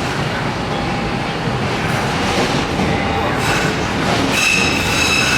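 Docklands Light Railway train running on the rails, a steady rumble, with a high held wheel squeal setting in about three and a half seconds in.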